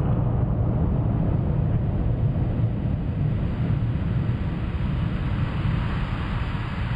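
Steady low rumble with no distinct blows or impacts, easing slightly toward the end.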